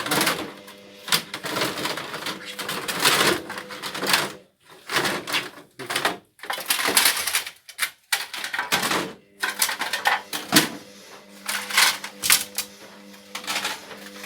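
Rapid, irregular clicking and clattering, like small hard objects being handled on a work surface, over a steady hum.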